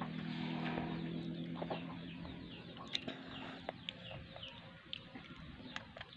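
Birds calling in the background: a run of short falling chirps, over a low steady hum that fades out about two seconds in, with a few light clicks.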